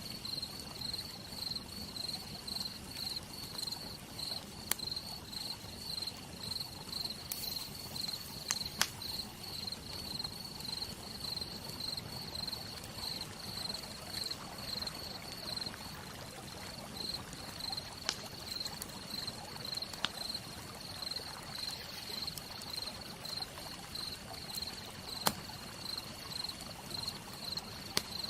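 Campfire crackling, with a handful of sharp pops standing out, over a steady hiss of rain. A high, evenly pulsing insect chirp is the loudest thing.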